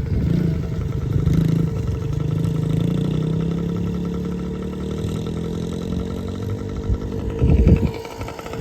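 Small dirt-bike engine running, revving up about a second in and then slowly settling back toward idle. A loud low rumble or thumping near the end.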